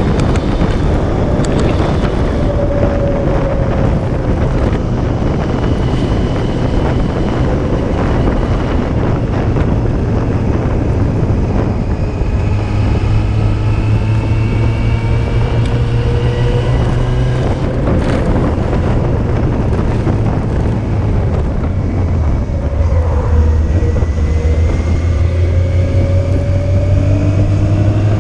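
Yamaha Fazer 600's inline-four engine running on the move, its pitch falling and rising with the throttle and rising again near the end, over heavy wind noise on the microphone.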